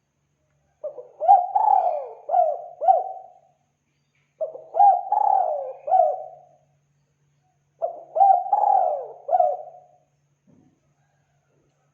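Spotted dove cooing: three phrases of four or five coos each, a little over a second apart.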